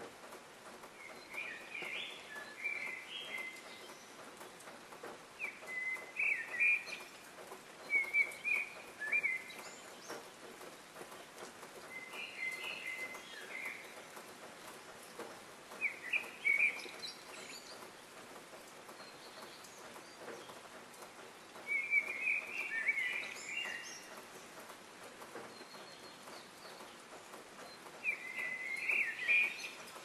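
A songbird calling in short clusters of chirps, about seven bouts a few seconds apart, over a steady background hiss.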